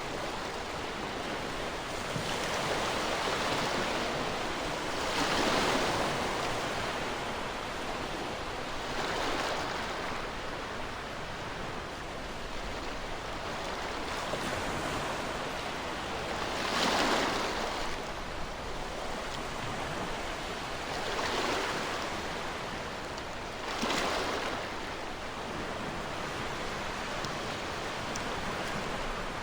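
Ocean waves breaking on a shore: a steady wash of surf with louder surges swelling and fading every few seconds.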